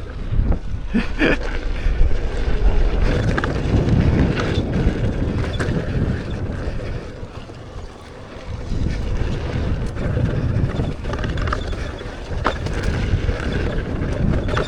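Wind buffeting the microphone of a rider moving fast on an electric unicycle down a dirt trail, a rough rushing rumble that rises and falls and eases briefly about halfway through.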